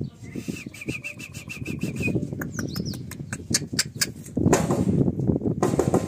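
A bird chirping in a fast run of short, high notes for about two seconds, followed by scattered sharp clicks and a few sliding chirps. About four and a half seconds in, a loud rustling noise takes over.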